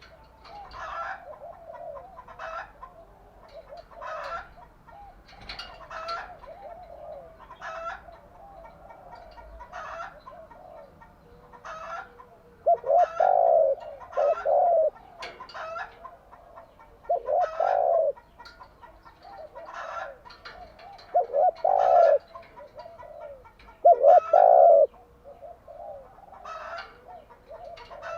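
Spotted dove cooing: four loud, low phrases of coos in the second half, with fainter calls of other birds repeating every second or two throughout.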